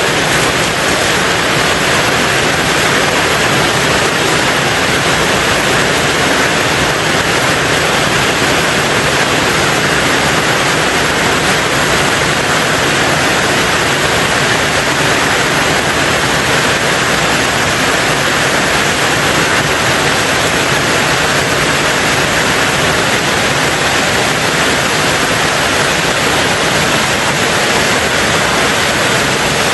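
Steady rain on a tin roof: an even, unbroken hiss with no single drops standing out.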